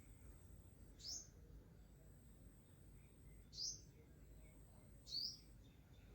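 Three short, high chirps, each rising quickly in pitch, over a faint steady hiss.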